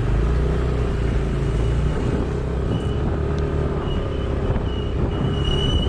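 Motor vehicle driving on the road: steady engine and road rumble, with a thin high tone coming and going in the second half.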